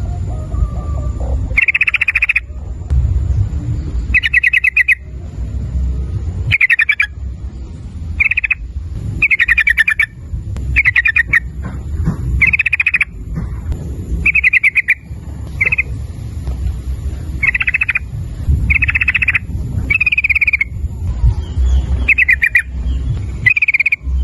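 Yellow-vented bulbul (trucukan) calling over and over: short phrases of rapid bubbling notes, about one every second or so. A steady low rumble runs underneath.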